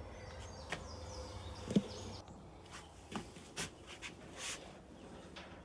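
Scattered light clicks and knocks of hand work on the dryer cabinet while screws are refitted, with one sharper knock about two seconds in.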